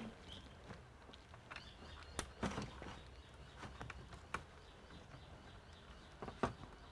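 About half a dozen light, scattered clicks and taps over a faint low steady hum.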